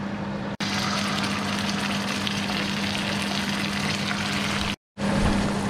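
Ground spice paste sizzling as it fries in hot oil in a non-stick frying pan: a steady hiss over a low steady hum, cutting out briefly near the end.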